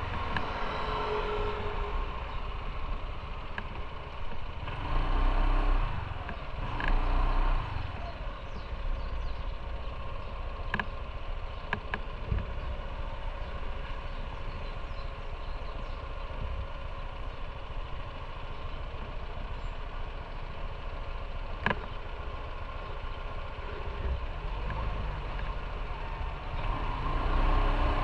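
Motorcycle engine running at low speed or idling, a steady low rumble, with two brief louder swells about five and seven seconds in and a few sharp clicks.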